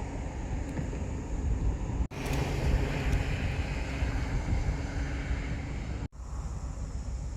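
Wind buffeting the microphone: an uneven low rumble with a hiss above it, cut off abruptly twice, about two and six seconds in.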